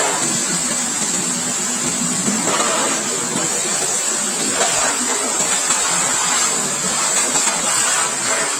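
Pressure washer running at a bike wash, its water jet hissing steadily.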